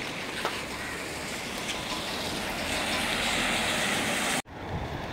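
Heavy rain falling on a wet street, a steady hiss that swells a little toward the end, then cuts off abruptly near the end.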